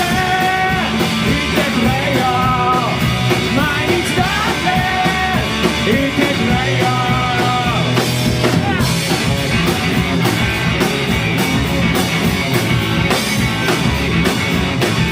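Live rock band playing loud guitar-driven garage rock: held melodic notes ring over bass and pounding drums in the first half, then the drums and cymbals drive on densely.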